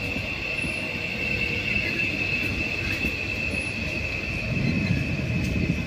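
A train moving on the tracks with a steady high-pitched squeal over the low rumble of its wheels; the rumble grows louder about four and a half seconds in.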